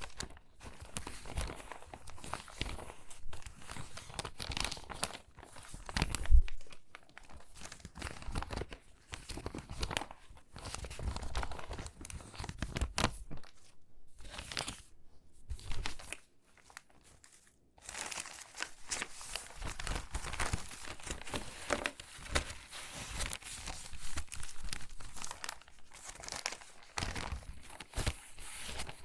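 Stiff, crinkly water-damaged magazine pages being handled and sorted: irregular rustling and crinkling of paper, with one louder thump about six seconds in and a brief pause near the middle.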